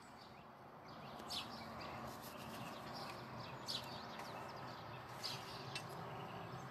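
Songbirds chirping now and then: a few short, high chirps, spaced irregularly over a faint steady outdoor hum.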